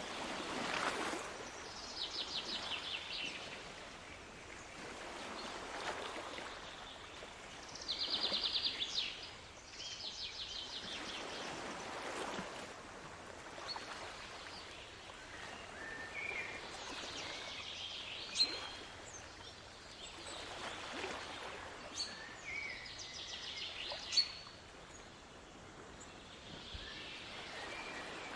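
Water washing steadily with swells every few seconds, like waves coming in, while birds sing: rapid repeated trills a few times in the first half, then short scattered chirps.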